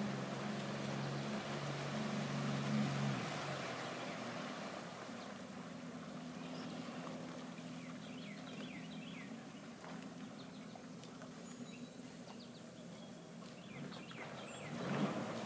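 Jet ski engine running with a steady hum that drops to a fainter level about three seconds in. A few short bird chirps come through in the second half.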